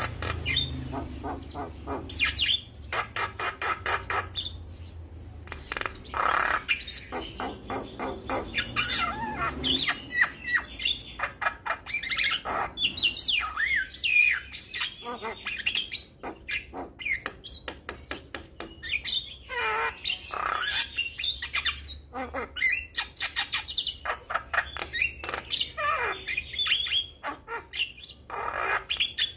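Javan myna singing without pause: fast rattling trains of clicks, mixed with gliding whistles and harsh squawks.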